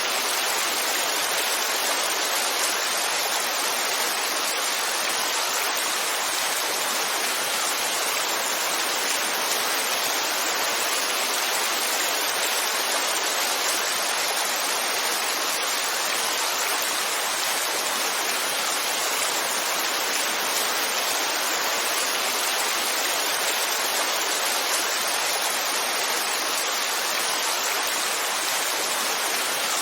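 Heavy rainfall making a dense, steady hiss with no separate drops, thunder or changes in level.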